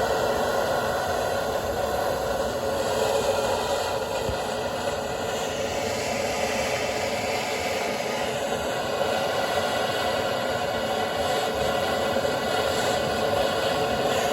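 Gas torch flame burning with a steady hissing roar, heating a seized part of a Chevy Silverado K1500's differential to free it.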